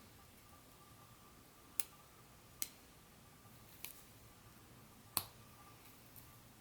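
Sharp, short clicks of small hard pieces of a model train set being handled: four distinct clicks about a second apart, the last the loudest, then a faint one near the end.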